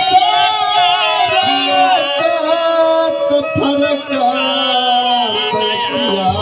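A Bhojpuri folk song: a man singing long, ornamented, wavering notes over instrumental accompaniment with a steady held drone.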